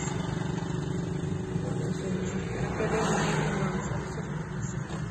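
Steady hum of a car engine idling, heard from inside the cabin, with traffic noise swelling briefly about three seconds in.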